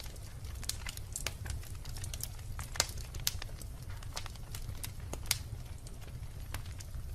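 Wood logs burning in a fireplace: irregular sharp pops and snaps of crackling over a steady low rumble, with a few louder pops scattered through.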